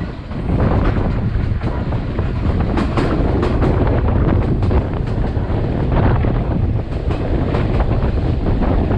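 Passenger train running along the track: a steady rumble with many short clicks and rattles, and wind buffeting the microphone.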